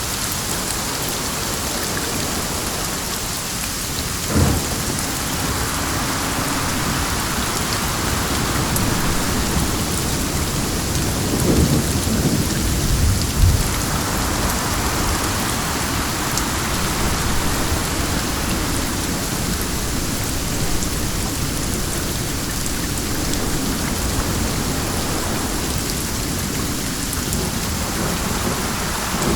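Steady heavy rain with wind. There is a short sharp crack about four seconds in, and a low rumble of thunder around twelve to thirteen seconds in.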